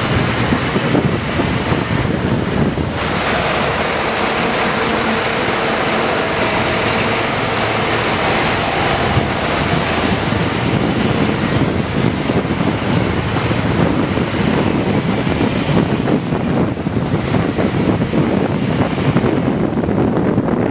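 Scania K410IB double-decker coach on the move: steady engine rumble with road and wind noise.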